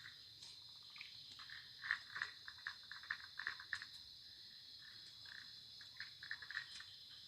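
Forest frogs and insects calling: a steady, high insect drone with many short frog calls scattered through it.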